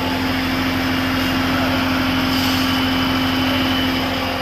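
Spray-painting rig running: a motor hums steadily under a constant rush of air hiss, and the hum fades near the end.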